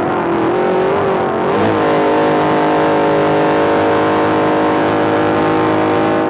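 Trophy truck's engine running hard, heard from on board: its pitch wavers up and down for the first second and a half or so, then holds steady at high revs down a straight, with wind and road noise underneath.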